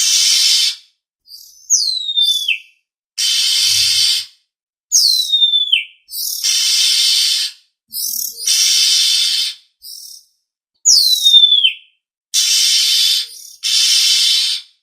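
Oriental magpie-robin (kacer) calling: repeated harsh, rasping calls of about a second each, alternating with three clear whistles that slide down in pitch. This is a lure call of the kind used to draw in wild magpie-robins.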